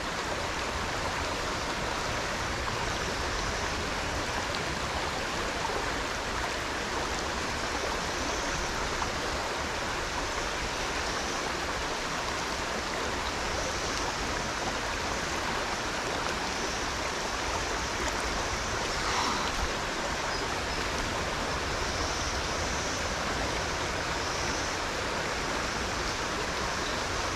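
Steady rushing of fast-flowing stream water over riffles, with a brief slight swell about two-thirds of the way through.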